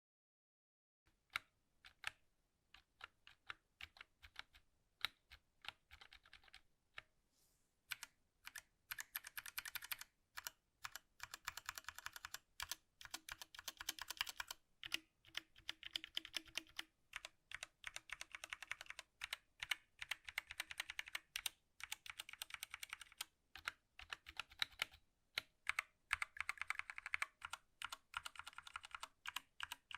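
Typing on a 60% mechanical gaming keyboard. A few scattered keystrokes give way, about eight seconds in, to fast continuous clacking.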